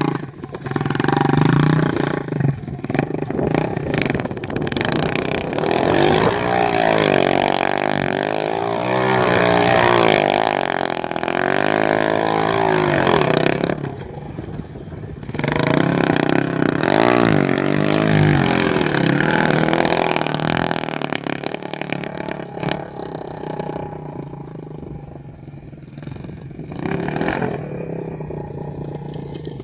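125cc pit bike engine revving hard during a burnout. The pitch climbs and falls again and again. It drops back briefly about halfway through and again for a few seconds near the end.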